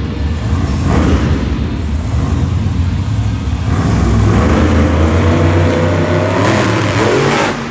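Monster truck engine running hard and revving, its pitch climbing over the last few seconds.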